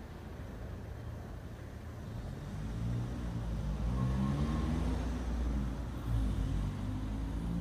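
A car engine running, with a low rumble that grows louder about two and a half seconds in.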